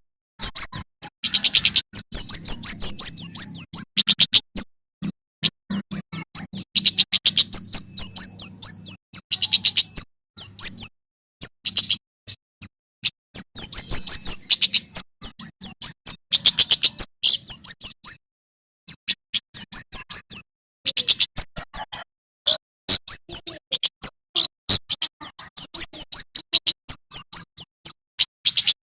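Male prenjak keres (kemade jawa) singing: rapid runs of sharp, high chirping notes in bursts of a few seconds separated by short pauses. A faint low hum lies under the first part.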